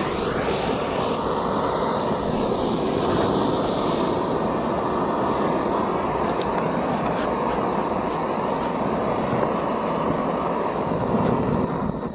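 Handheld gas torch burning with a steady, even hiss, its flame lit by an igniter click just before. The torch is being held to light the fuel in a bee smoker.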